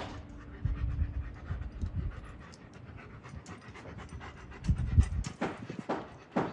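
A dog panting, in quick breathy strokes that grow louder and more regular near the end.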